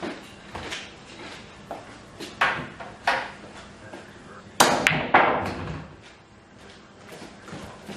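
A series of sharp clicks and knocks, hard objects striking one another, with a louder cluster of knocks about halfway through.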